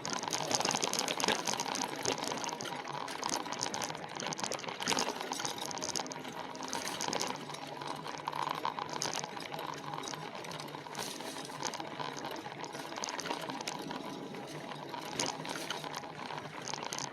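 Riding noise from an electric bike on a trail: a steady rushing noise with many small crackles and rattles, with a faint steady hum underneath.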